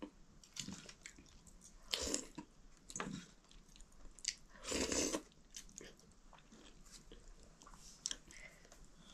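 Close-miked mouth sounds of a person eating maize dhido and chicken: chewing and biting in short, irregular bursts with small wet clicks, the loudest burst about five seconds in.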